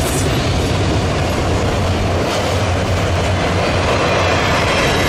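Train cars rolling past close by: a steady, loud rumble with wheel and rail noise.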